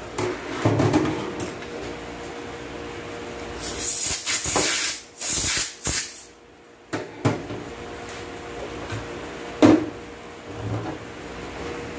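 Workshop knocks and clunks of parts being handled during an automatic transaxle rebuild, with a few seconds of loud hissing about four seconds in.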